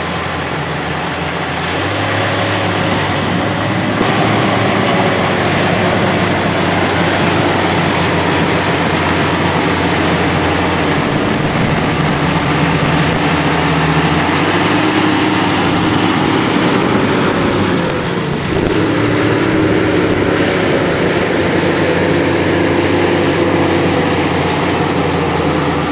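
Heavy earth-moving machine's engine running steadily under work, its pitch dipping briefly about 18 seconds in and then recovering.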